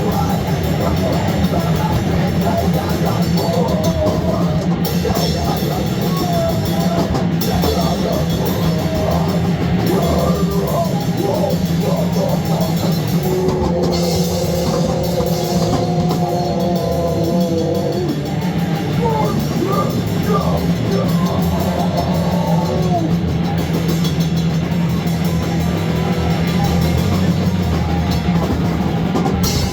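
Loud rock music with a drum kit and guitar, running without a break; a wavering melodic line stands out through the middle.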